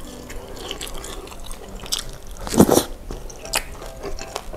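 Close-miked mukbang eating sounds: chewy tapioca meatballs being chewed with wet mouth noises, small clicks, and one louder wet mouth sound about two and a half seconds in, with a wooden spoon moving through the broth in a glass dish.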